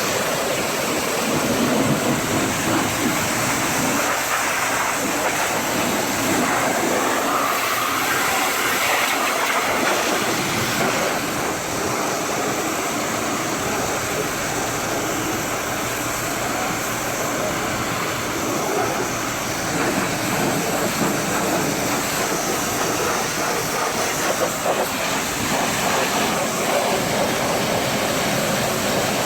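Pressure washer spraying water and foam against a truck: a loud, steady hiss of spray with shifting texture as the wand moves.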